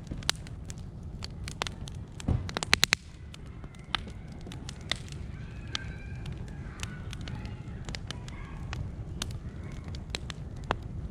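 Wood fire crackling, with scattered sharp pops and a quick run of loud snaps about two to three seconds in, over a low steady rumble.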